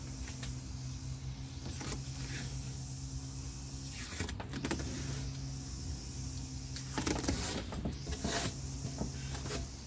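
Power window motor of a 1996 Honda Civic rear door running a steady hum as it drives the glass on a newly installed regulator, with a few short clatters and knocks along the way.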